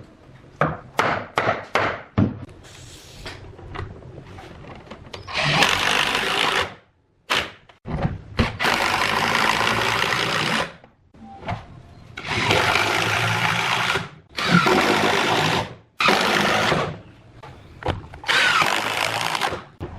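A handheld power tool, such as a drill, run in six short bursts of one to two seconds each, starting and stopping abruptly. It is preceded by a few sharp knocks on wood in the first couple of seconds.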